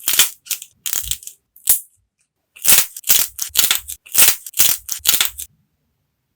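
Clay being cracked and crushed: crisp, crumbly crunches, a few in the first two seconds, then about seven in quick succession, stopping about five and a half seconds in.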